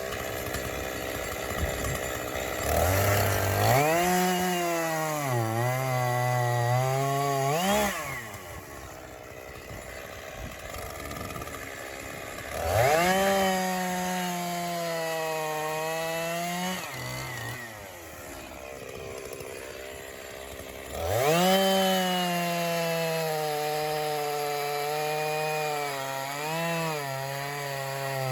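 Echo CS-501P 50cc two-stroke chainsaw revving up and cutting through white pine logs three times, its pitch sagging under load during each cut, and dropping back to idle between cuts.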